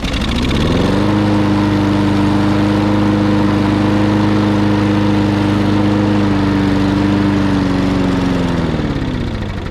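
Small lawn mower engine, pull-started on propane blown into its intake, catching and rising to speed, running steadily for about eight seconds, then slowing down and dying near the end. The stall prompts the question of whether it is out of gas.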